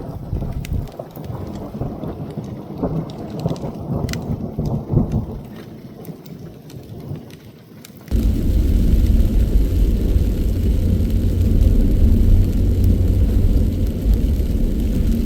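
Thunder rolling and rumbling after a lightning flash, with raindrops ticking sharply on the vehicle. About eight seconds in, the sound switches abruptly to a loud, steady low rumble.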